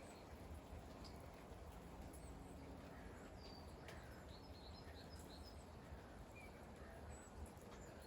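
Faint, steady outdoor ambience of light rain: an even hiss over a low rumble with a few scattered drip-like ticks. Several short, faint bird chirps come through, including a quick run of them about four to five seconds in.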